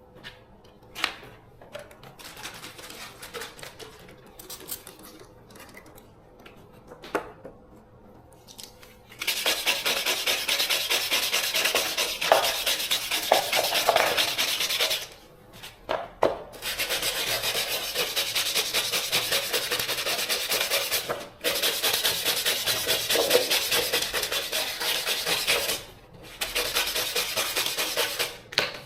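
Light scattered clicks and taps, then about nine seconds in, long stretches of fast, steady abrasive scraping on a workpiece, like filing or sanding. The scraping stops briefly three times.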